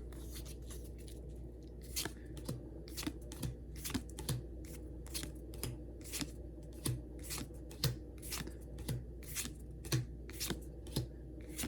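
Pokémon trading cards being handled and flicked through one by one: a run of short, sharp card snaps, roughly two a second, starting about two seconds in.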